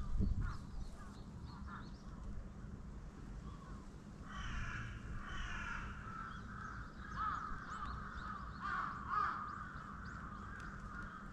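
Birds calling, a run of repeated harsh calls from about four seconds in, over a steady low rumble. A low thump comes right at the start.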